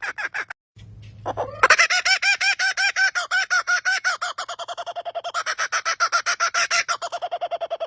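A bird calling in a long, fast run of evenly repeated notes that sounds like a person laughing, about eight notes a second. The run breaks off briefly near the start and starts again louder about a second and a half in.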